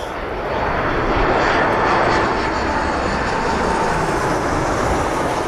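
Airliner on final approach passing close by to land, its engines a steady rushing noise with a faint whine in the second half.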